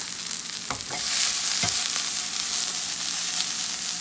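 Sliced shiitake mushrooms sizzling in rendered beef fat in a skillet, the sizzle growing louder about a second in. There are a couple of short knocks near the start.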